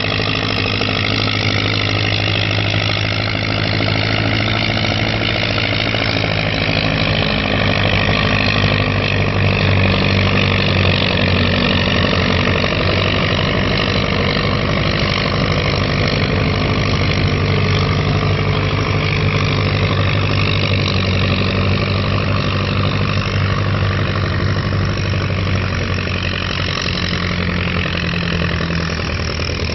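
1952 Allis-Chalmers WD pulling tractor's four-cylinder engine running hard under load as it drags the pulling sled. The note is steady, with a small step in pitch about a quarter of the way in.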